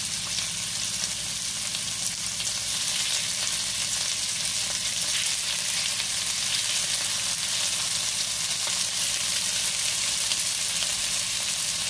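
Marinated chicken tenderloins sizzling steadily on a hot, oiled, ridged grill pan.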